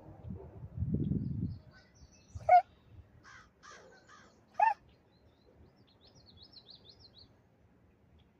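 Crow cawing: two loud harsh caws about two seconds apart, with three fainter caws between them. A low rumble comes just before the calls, and a small bird chirps faintly near the end.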